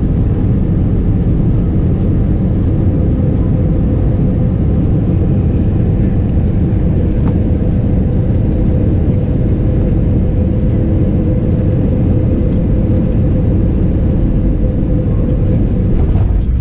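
Steady roar of an Airbus A320neo in flight, heard from inside the cabin: a deep, even rumble of engines and airflow with a thin steady hum held over it.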